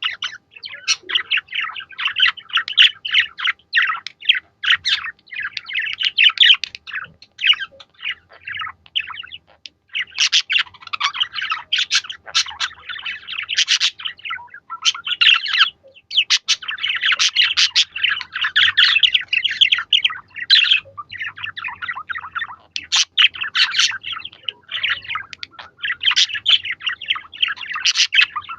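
Budgerigars chattering and warbling in fast, dense chirps, with brief lulls about ten and sixteen seconds in.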